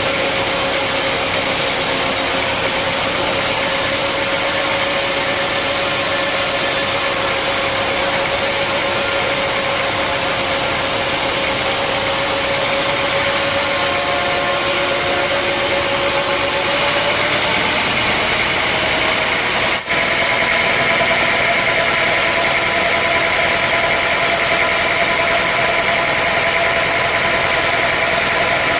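Sawmill engine running steadily, its pitch rising slightly a little past halfway, with a brief break in the sound about twenty seconds in.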